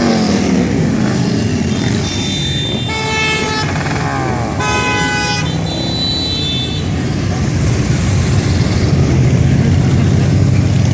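Motorcycle engines running with a steady drone while a vehicle horn sounds two clear honks, about three and five seconds in, and a fainter one just after.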